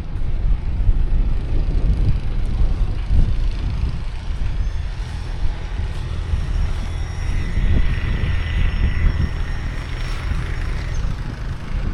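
Wind buffeting the microphone, with a vehicle passing midway that gives a high, steady whine for several seconds.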